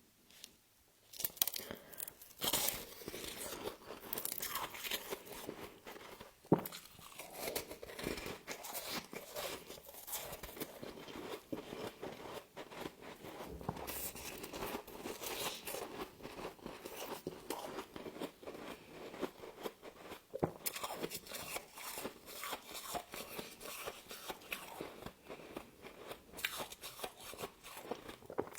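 Close-up crunching and chewing of humidifier frost, with brittle crackles and snaps that come steadily and unevenly, and a sharp loud crunch about six and a half seconds in.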